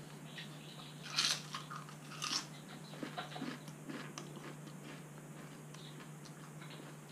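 Crunching and chewing of a potato crisp in the mouth: two sharper crunches about one and two seconds in, then fainter chewing clicks that die away, over a faint steady hum.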